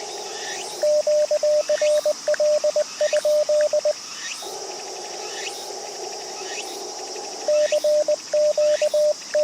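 A transceiver's Morse code sidetone, one steady mid-pitched tone keyed into dots and dashes, as the operator sends CW at about 20 words per minute, plausibly a CQ POTA call. It comes in two runs, from about a second in and again about three-quarters of the way through. Between them is the receiver's narrow-filtered band hiss. Insects chirp steadily underneath, about once a second.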